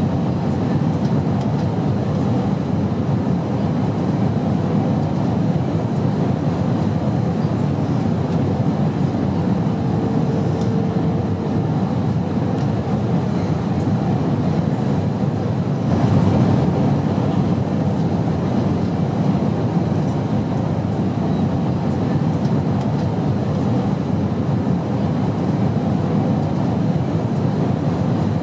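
Steady airplane drone: an even low rumble with no breaks, swelling slightly about sixteen seconds in.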